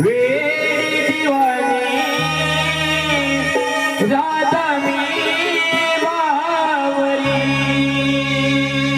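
Marathi Radha-Krishna love song: a voice sings a winding, gliding melody over tabla and a steady held drone.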